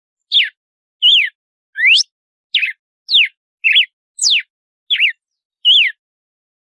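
Red-cowled cardinal (galo-de-campina) singing its 'açoite' song: a phrase of about nine loud, clear whistled notes a little over half a second apart, some sweeping up, some sweeping down and some arched, stopping near the end.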